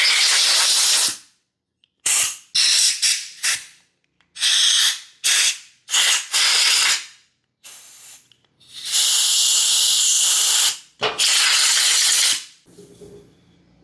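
Repeated hissing blasts of pressurized spray, as from a can or nozzle aimed into a small engine. First comes a string of short bursts, then one long blast of about two seconds past the middle and another just after it.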